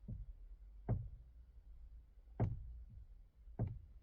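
Knocking in the steering of a 2018 Hyundai Creta as the wheel is turned: four short clicks, roughly a second apart. The owner feels it comes from around the electric power-steering unit and likens it to a bit of plastic or rubber catching.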